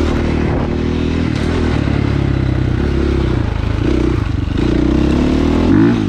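Dirt bike engine running at changing throttle while riding, the revs rising briefly near the end.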